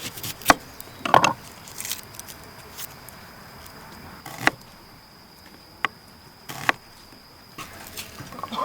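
Scattered knocks and clatters of camp cooking gear being handled, half a dozen in all, over a steady high-pitched insect note, likely night crickets.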